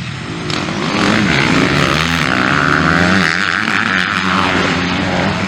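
Several motocross bikes' engines revving hard on the track together, their pitches wavering up and down with the throttle. They grow louder about a second in.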